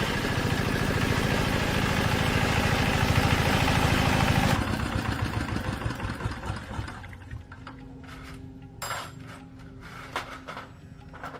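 Old tractor's diesel engine running with a steady, rapid firing beat, then stopping about four and a half seconds in and fading out over the next two seconds. A few faint clicks follow.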